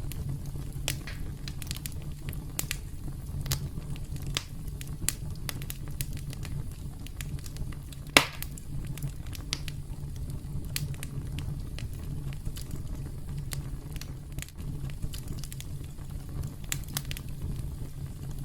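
Campfire burning: a steady low rumble of the flames with irregular sharp crackles and pops of burning wood, one pop louder than the rest about eight seconds in.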